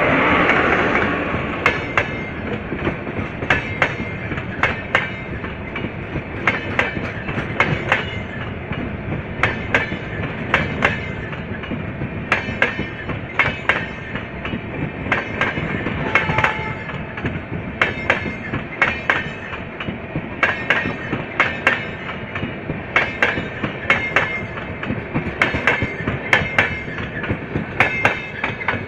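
Double-decker passenger coaches of an express train passing close by at speed, their wheels clattering over rail joints in quick clusters of clicks as each bogie goes over, above a steady rolling rush. In the first second the WAP7 electric locomotive goes by with a louder rush.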